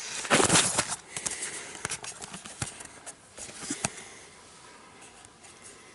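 Rustling and small knocks of sleeping-bag and tent fabric and gear being handled in a closed tent, loudest in the first second, then dying down to a faint hiss.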